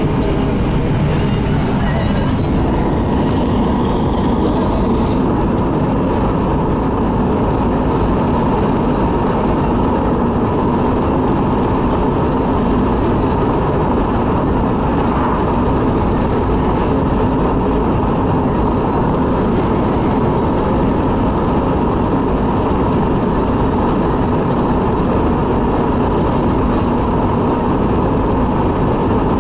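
Steady road and engine noise of a car driving, heard from inside the cabin, with a constant low rumble and a faint steady hum.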